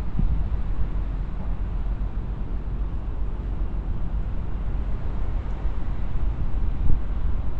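Wind buffeting the microphone: a steady low rumble that rises and falls in gusts, with no distinct tones or knocks.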